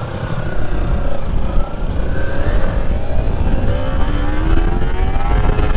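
Kawasaki Ninja 300 parallel-twin motorcycle engine accelerating on the road, its note climbing, dipping in the middle as it shifts up, then climbing again, with heavy wind rumble on the microphone.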